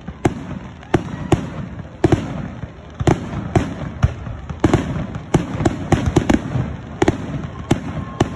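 Aerial firework shells bursting in a rapid, irregular series of sharp bangs, about two a second, with rumbling echoes between them.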